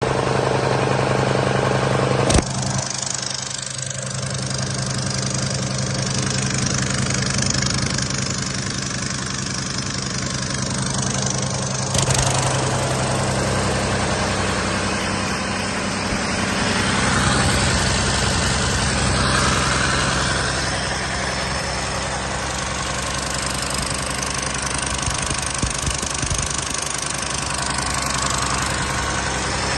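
Mercedes-Benz OM906LA 6.4 L inline-six turbodiesel running at a steady idle on a test run. Two sharp clicks cut across it, a couple of seconds in and again about twelve seconds in.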